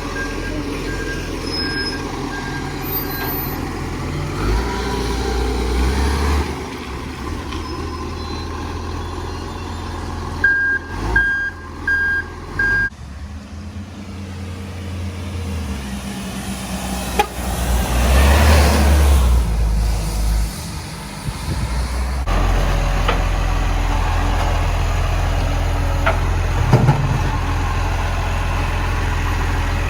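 Garbage truck engine running with a steady low rumble, and a reversing alarm beeping: faint at first, then four louder beeps in quick succession about halfway through.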